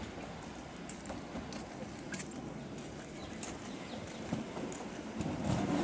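London Underground Bakerloo line 1972 Stock train approaching over points, its wheels clicking and rattling over the rail joints, growing louder near the end.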